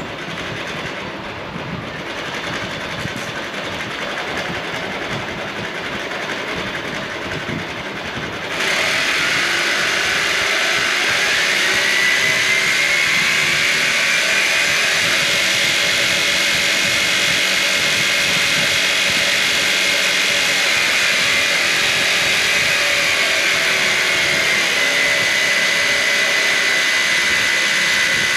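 Brushless electric motor driving a 3D-printed gearbox, running with a steady high whine over gear noise. It gets much louder about a third of the way in, and the whine rises a little, then settles back near the end.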